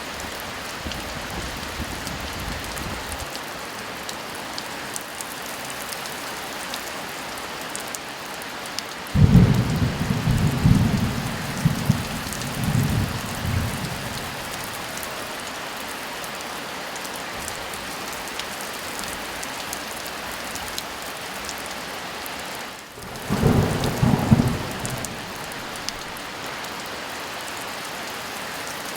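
Steady heavy rain with thunder: a loud low rumble of thunder breaks in about nine seconds in and rolls on for several seconds, and a second, shorter rumble comes near the end.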